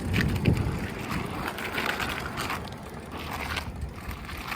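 Wind rumbling on the microphone while riding a bicycle, with light rattles and clicks from the bike. The rumble is strongest in the first second and eases off.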